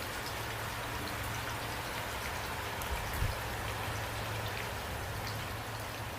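Steady rain with individual drops ticking, over a low steady rumble. A brief low thud about three seconds in.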